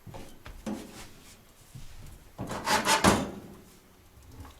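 Firewood logs being set upright into the firebox of a wood-burning fireplace: several wooden knocks and scrapes, with a louder scraping clatter about two and a half seconds in.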